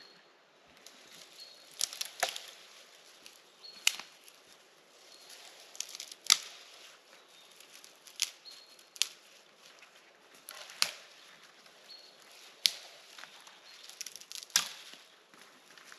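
A series of sharp cracks or knocks, about a dozen, spaced irregularly a second or two apart, over a faint steady high hiss.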